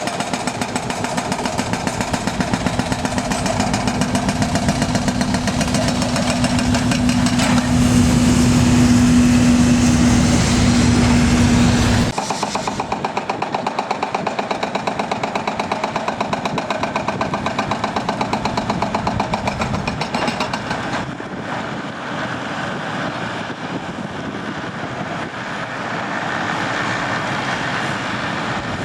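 Jet airliner engines running loud and steady, with a steady low hum under the noise for the first dozen seconds. The sound changes abruptly about twelve seconds in and again near two-thirds of the way through.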